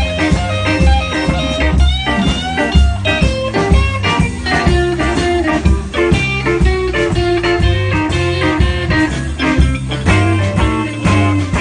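Live blues band playing an instrumental passage: a lead guitar solo over bass and drums with a steady beat.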